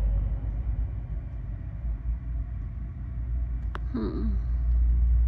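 Low, steady rumble of a VIA Rail passenger train running along the track, swelling louder near the end, with a sharp click about three and a half seconds in.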